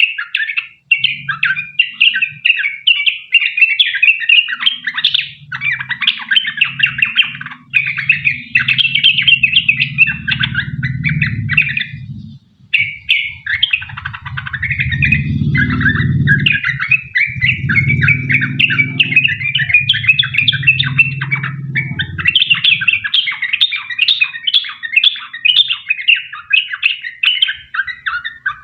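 Yellow-vented bulbul (trucukan) singing on and on in long, rapid chattering runs. A low rumble sits underneath from about a second in until about two-thirds of the way through.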